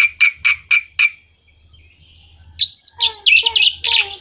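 Orange-headed thrush song: a run of quick, sharp chips, about four a second, then a short pause. From a little past halfway comes a varied phrase of high whistled notes over lower warbled notes.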